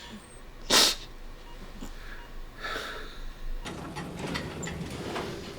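A person's sharp, noisy breath in, about a second in, with a fainter breath a couple of seconds later, over quiet room sound.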